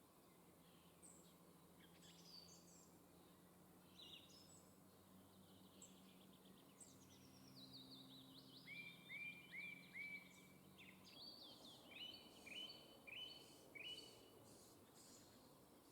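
Faint birdsong: several songbirds calling and singing, with runs of short repeated notes in the second half. A faint low hum lies underneath until about two thirds of the way through.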